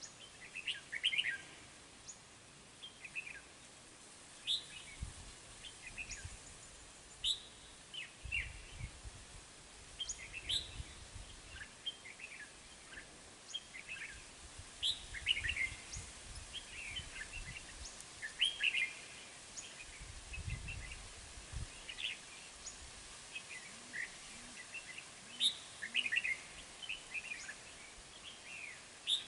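Red-whiskered bulbuls calling, with short, sharp chirping notes every second or so. A few low rumbles come in now and then.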